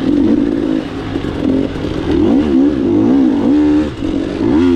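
Dirt bike engine revving up and down over and over as it rides a trail, holding a steady pitch briefly about three and a half seconds in.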